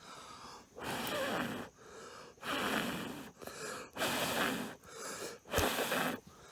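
A person blowing long, hard breaths onto a smouldering campfire to coax it into flame, about five breaths in a row.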